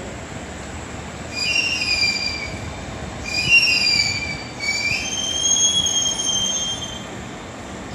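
Kintetsu 50000-series Shimakaze limited express pulling into the platform and slowing under a steady rumble. It gives high-pitched squeals three times: about a second in, around three seconds in, and again from about five seconds in, the last one drawn out.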